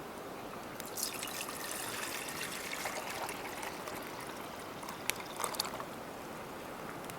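Water pouring or trickling, starting about a second in and easing off after a few seconds, followed by a few sharp clicks.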